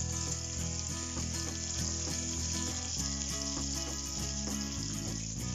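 Slices of guanciale sizzling steadily as they fry in a frying pan, with background music of held low notes underneath. The sizzle cuts off sharply at the very end.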